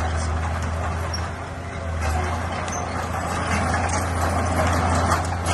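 Crawler bulldozer's diesel engine running steadily. It eases off briefly about a second and a half in, then works harder, with sharp clicking and clanking near the end.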